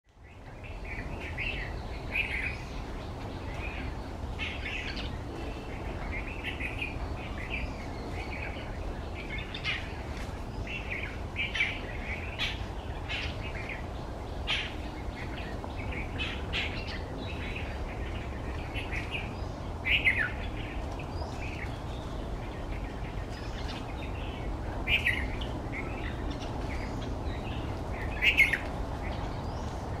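Birds chirping: many short high calls scattered throughout, a few louder ones standing out, over steady low background noise.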